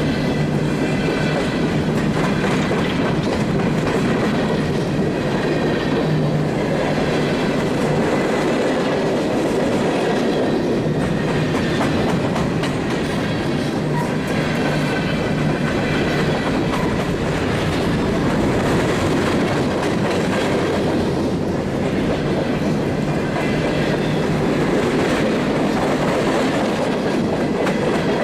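A train rolling along the track, a steady, unbroken noise of wheels and cars on the rails.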